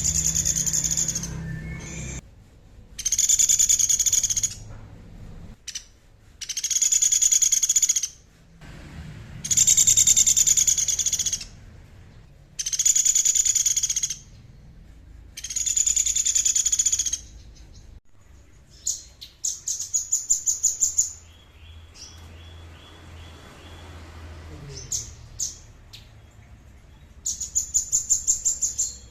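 A songbird singing a high, buzzy phrase of about two seconds, repeated six times with short gaps. Later comes a rapid stuttering trill of quick notes, twice.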